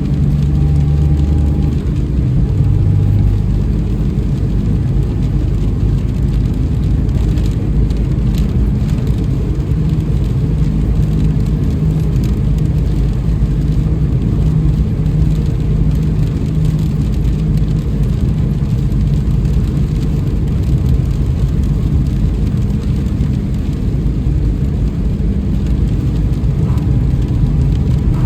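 A car driving through rain, with a steady low drone of engine and road noise and the patter of rain on the car.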